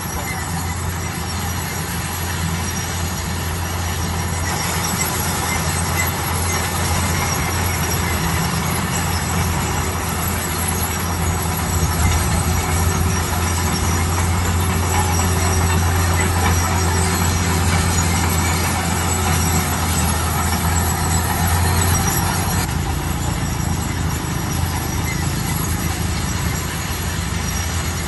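Heavy construction machinery running: a steady low engine drone with metal squealing and grinding over it.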